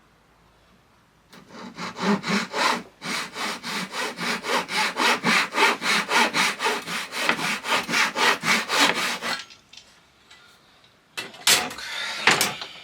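Hand saw cutting thin plywood with quick, even strokes, about three a second, for some eight seconds, then stopping. Near the end come a couple of sharp knocks and a short scrape.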